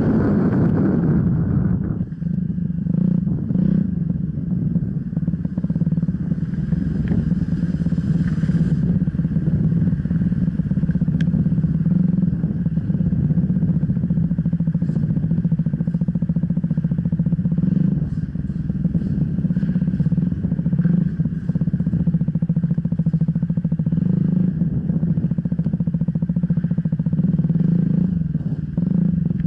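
Enduro dirt bike engine running at a fairly steady pitch, with scattered knocks and rattles.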